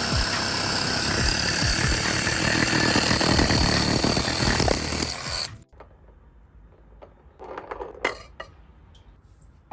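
A saw cutting through firewood, a loud steady grinding noise that stops abruptly about five and a half seconds in. A few faint knocks follow near the end.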